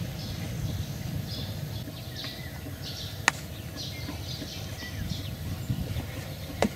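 Small birds chirping in short, scattered notes over a low outdoor rumble, with one sharp click about halfway through.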